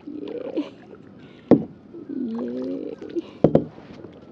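Kayak paddling: the paddle knocks sharply against the kayak hull once about a second and a half in and twice in quick succession near the end, between strokes.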